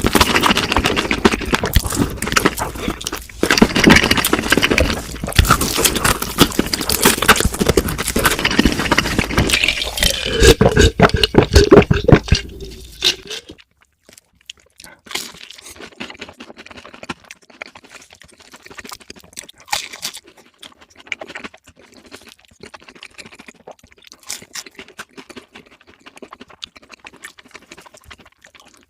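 Close-miked eating of crispy fried food: loud, dense crunching for the first half. It drops suddenly to quieter chewing with scattered small clicks and smacks.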